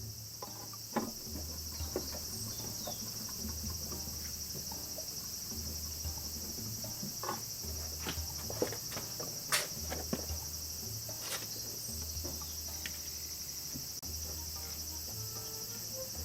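Crickets chirring steadily, with scattered short clicks and knocks throughout and a low, stepped hum underneath.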